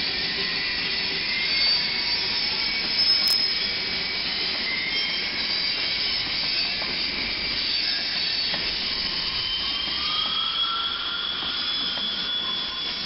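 Covered grain hopper cars of a CN freight train rolling past on a curve, their wheels squealing steadily with high, shifting whistling tones.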